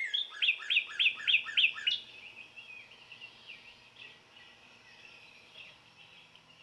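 Recorded northern cardinal song played back: a run of about seven quick down-slurred whistles, about three a second, that ends about two seconds in. Fainter bird chirps follow.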